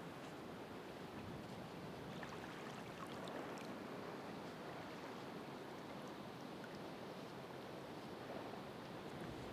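Ocean waves washing onto the shore: a steady rush of surf that swells slightly a few seconds in, with faint fizzing ticks of draining water.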